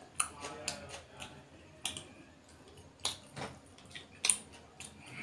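Close-miked eating sounds: irregular wet smacks and clicks of chewing and lips, with the loudest smack a little past four seconds as a mouthful goes in.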